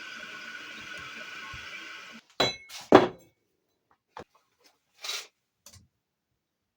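A steady mechanical whir that cuts off abruptly about two seconds in, followed by a handful of sharp metallic clinks and knocks of metal parts or tools being handled, the second knock the loudest.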